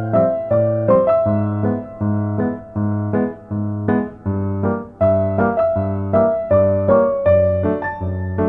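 Background piano music: a gentle melody over low bass notes and chords struck about twice a second, each note fading after it is struck.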